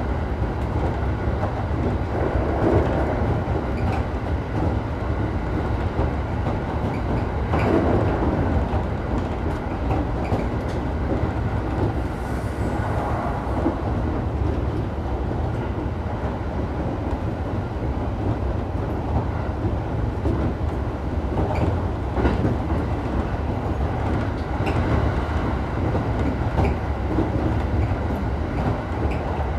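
A JR Utsunomiya Line commuter train running between stations, heard from inside the car: a steady low rumble, with a click now and then as the wheels pass over the rail joints.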